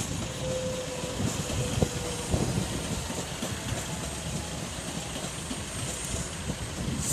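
Class 365 electric multiple unit running over the crossing, a steady rumble of wheels on rail with a few knocks about two seconds in.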